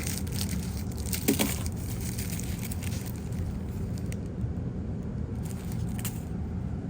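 Paper wrapping of a firecracker brick crinkling and rustling in a few short bursts as it is torn open by hand, over a steady low hum.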